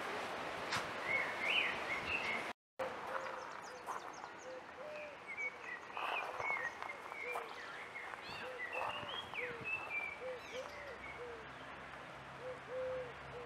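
Birds calling: a string of short, low, hooting notes repeated irregularly, with higher chirps and whistles above them. The sound cuts out for a moment about two and a half seconds in.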